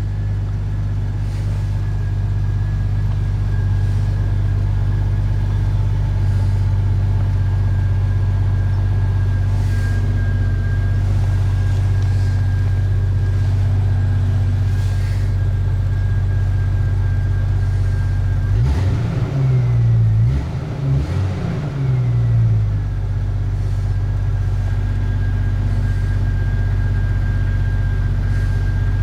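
Jeep TJ engine idling steadily while warming up after a cold start, heard from inside the cab, with a thin steady whine over it. About two-thirds of the way through the engine is briefly revved up twice and drops back to idle.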